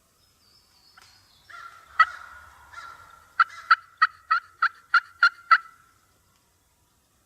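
Turkey yelping: a loud single note about two seconds in, then a run of eight sharp yelps at about four a second that stops just before six seconds.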